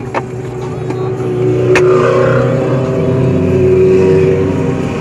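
Motor vehicle engines in highway traffic: a steady engine hum that grows louder about two seconds in and holds, with one sharp click just before the swell.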